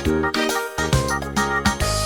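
Instrumental karaoke backing track with no singing: keyboard and synthesizer notes over a bass line and a steady beat.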